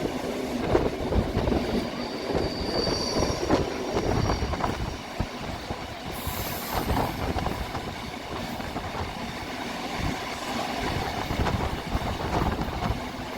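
Railway carriages rolling along the track: a steady rumble with irregular wheel knocks and clatter. About two and a half seconds in, a thin high wheel squeal lasts about two seconds, and a short hiss comes about six seconds in.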